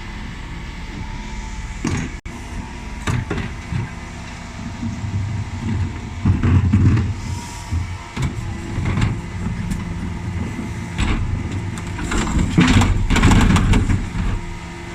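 A Dennis Elite 6 refuse truck's diesel engine running steadily while its rear bin lift works, with clanks and bangs of wheelie bins being lifted and tipped, and two louder spells of banging and engine load about six seconds in and near the end.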